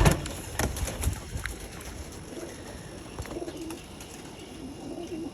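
Domestic pigeons cooing: low, wavering coos that start about two seconds in and carry on. A few sharp knocks and clatter come in the first second.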